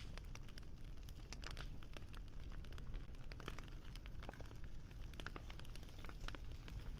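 Wood fire crackling: irregular small pops and snaps over a low, steady rumble.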